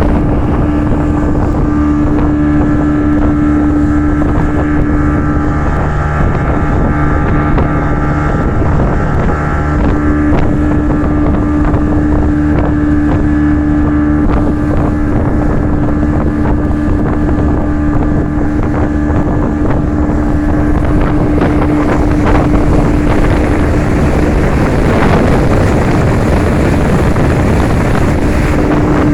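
Speedboat motor running steadily at speed, heard from on board, with wind on the microphone and rushing water. The engine's steady hum dips out briefly about six seconds in and again near the end.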